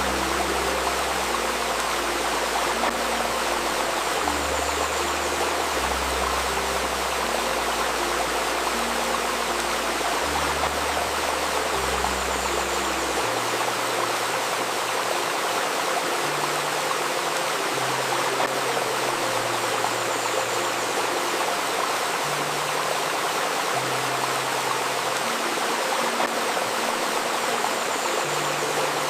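Babbling river running steadily, with soft, low sustained tones layered underneath whose pitch shifts every second or two.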